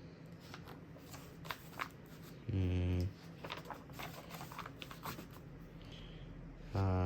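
Light paper rustling and small clicks, as of a book's pages being handled. Two short, steady, low buzzes of about half a second each come through over it, one about two and a half seconds in and one near the end, louder than the rustling.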